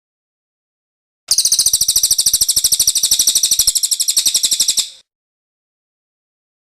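A cililin singing a single fast, high-pitched trill of rapidly repeated notes that starts about a second in and lasts about three and a half seconds.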